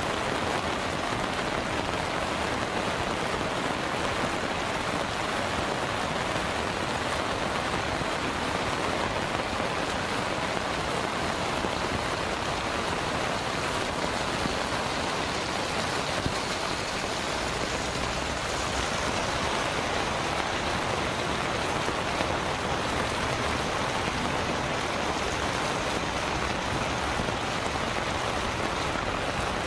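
Heavy monsoon rain pouring down steadily onto a river and the ground beside it, an even, unbroken hiss.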